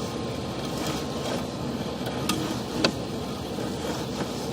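Steady low background noise, with two faint clicks a little over two seconds and nearly three seconds in.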